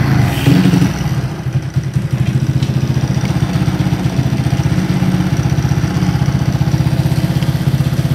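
Supercharged Honda Postie bike's small single-cylinder four-stroke engine idling with its belt-driven blower, the exhaust pulsing fast and even. It doesn't idle very well: the builder blames the blower's drag, which fights the low idle that the semi-automatic clutch needs, together with carburettor tuning.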